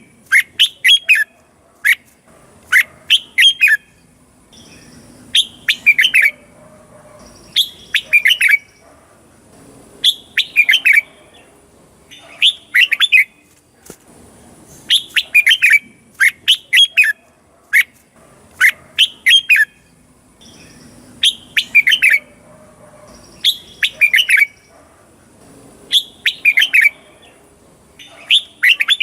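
Red-whiskered bulbul singing: short bright phrases of a few quick chirpy notes, usually two in close succession, repeated every two to three seconds.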